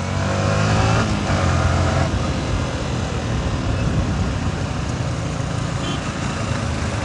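Yamaha R15's single-cylinder engine pulling while riding, its pitch rising in the first second as it accelerates. It then settles into steady running under wind and road noise.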